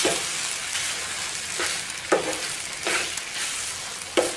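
Mawa (khoya) sizzling as it roasts in a frying pan on low heat, stirred with short scraping strokes against the pan about every second.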